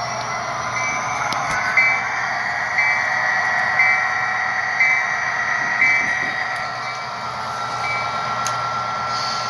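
HO-scale model of a Norfolk Southern SD70ACe diesel locomotive playing its Tsunami2 sound-decoder sounds: a steady diesel engine rumble with the locomotive bell ringing about once a second, stopping near the end, over a steady whine.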